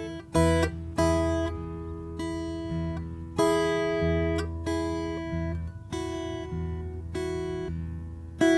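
Solo acoustic guitar played slowly, with chords strummed or plucked every second or so and each one left to ring out.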